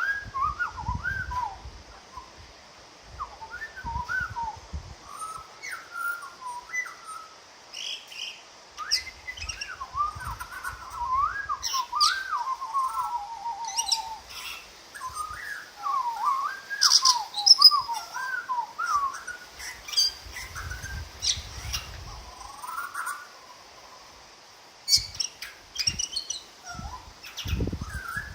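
A butcherbird singing in phrases of fluted, rising and falling notes, with a man whistling along with it; sharp high chirps come in now and then, and a short rapid trill about halfway through.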